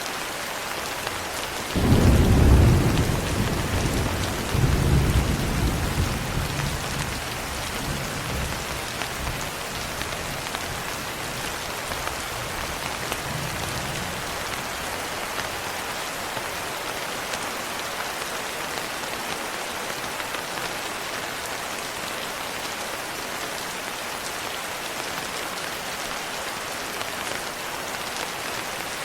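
Steady rain falling, with a clap of thunder about two seconds in that surges again a couple of seconds later and rumbles away over the next ten seconds.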